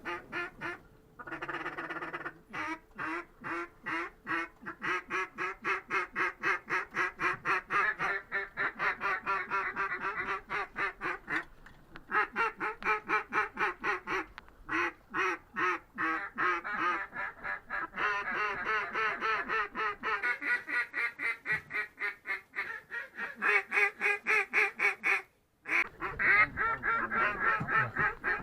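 Duck quacking: a long, steady run of short quacks at about three a second, broken by a few brief gaps.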